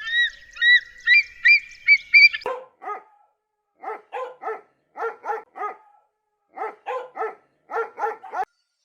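About six short high-pitched whining yips, then a dog barking in quick runs of three, about five runs.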